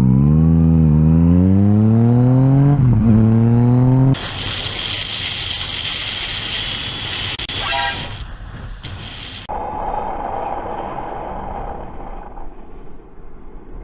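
Motorcycle engine dropping in pitch and then revving steadily higher as the bike accelerates, cutting off abruptly about four seconds in. Steady wind and road noise follows while riding.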